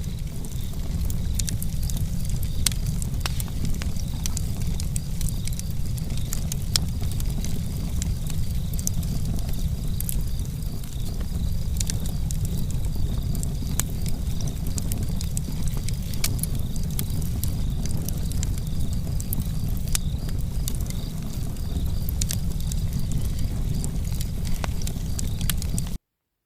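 Wood fire burning in a stove or fireplace: steady low rumble with frequent sharp crackles and pops. The sound cuts off abruptly near the end.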